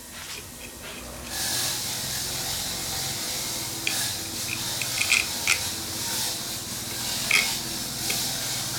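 Steady hiss of a pressurised spray or air jet, starting about a second in, with a low hum beneath it and a few light clicks.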